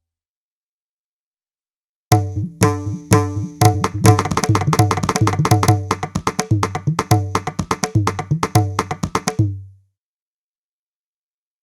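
Indian hand-drum pattern played from the SwarPlug 4 sample library, tabla-like: a fast run of sharp high strokes over deep, pitched bass strokes. It starts about two seconds in and stops a couple of seconds before the end.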